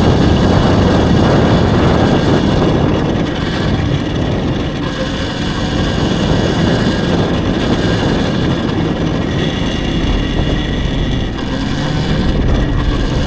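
Steady wind rush over the microphone and running noise while riding an electric dirt bike, with a slight dip in level near the end.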